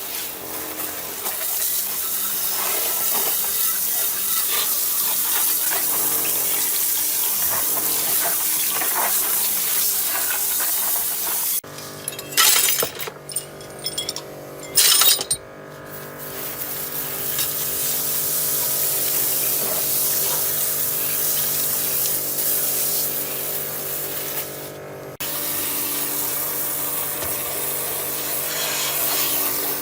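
Steady rush of running or spraying water, with abrupt breaks and changes about twelve seconds in and again near twenty-five seconds.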